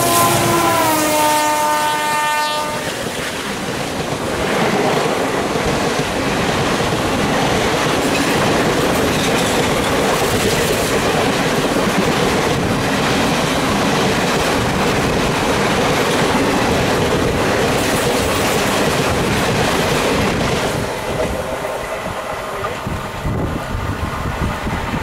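A passing Indian Railways passenger train: the locomotive's horn sounds and drops in pitch as it goes by, then the coaches run past at speed with loud wheel clatter, easing off near the end.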